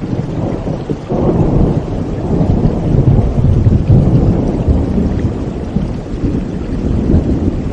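Rushing water with a deep, low rumble that swells about a second in and stays loud.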